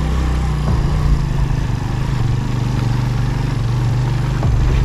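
Motorcycle engine running steadily at low revs while riding over a rough dirt track, with a few brief knocks.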